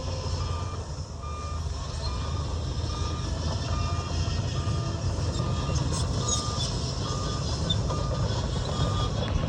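Reverse alarm on a heavy earthmoving machine beeping steadily, a short tone about every 0.8 seconds, over the low running of its diesel engine as it backs up.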